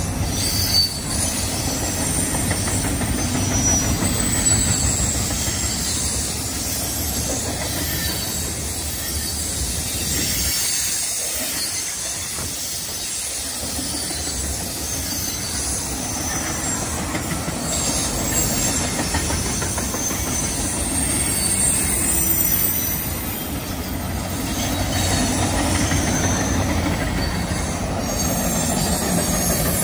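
Freight train cars rolling steadily past on a curve: a continuous rumble of steel wheels on rail, with high wheel squeal from the curve coming and going.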